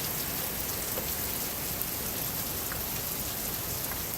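Heavy rain pouring down in a steady, even hiss, with faint scattered drop ticks.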